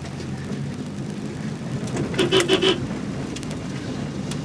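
Subaru rally car running at low speed after a hard stop, heard from inside the cabin as a steady low rumble. About halfway through come four short, sharp sounds in quick succession.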